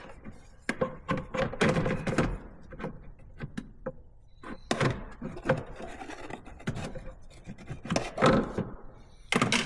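Irregular knocks and clunks of an aftermarket intake pipe and its coupler being handled and fitted into place in a car's engine bay.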